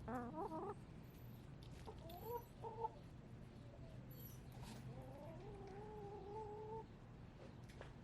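Backyard hens vocalizing: a quick wavering trill at the start, two short clucks a couple of seconds in, then one long drawn-out call holding a steady pitch. Faint high chirps of wild birds come through in the background.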